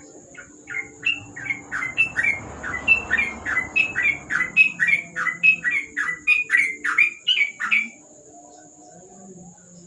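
Yellow-vented bulbul (trucukan) calling: a rapid series of about two dozen short, downward-sliding chirps, roughly three a second. The series stops about eight seconds in. A faint steady high whine runs underneath.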